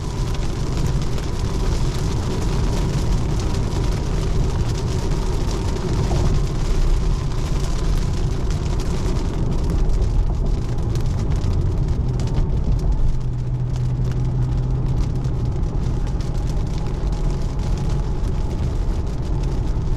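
Steady road noise inside the cabin of a 2024 Tesla Model 3 Long Range driving on a wet road in the rain: tyre hiss on the wet surface, with no engine note.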